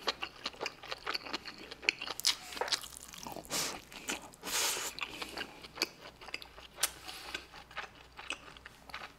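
Close-miked chewing of hamburger steak and rice: a run of wet mouth clicks and smacks, with a couple of longer hissing mouth noises a few seconds in.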